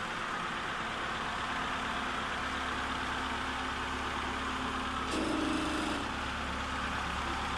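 Toyota Corolla's carburetted 2E four-cylinder engine idling steadily, running evenly after a new head gasket. About five seconds in there is a brief higher-pitched sound lasting under a second.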